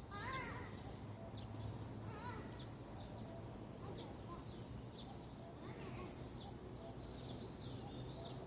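Wild birds calling in a morning chorus: short high chirps repeat throughout, with a louder call near the start and a wavering, warbling phrase near the end. A low steady hum runs underneath.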